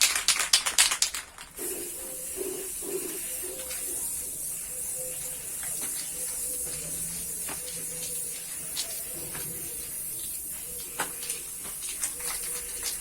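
Paint spray gun spraying white paint in a steady high hiss. It is opened by about a second and a half of loud, rapid clicking and rattling.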